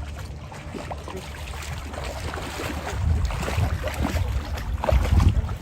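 Wind buffeting the microphone over moving water, with stronger gusts about three and five seconds in.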